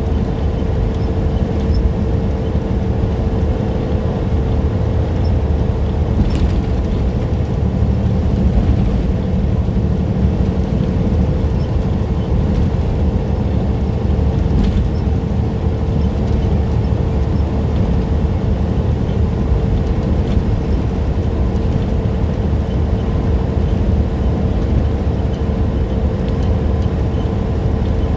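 Semi truck driving at a steady speed: the engine drone and road rumble run evenly, with a steady hum above the rumble.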